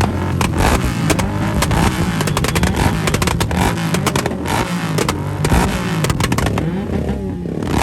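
Several motorcycles with modified exhausts revving, their engine notes overlapping and repeatedly rising and falling, with many sharp cracks throughout.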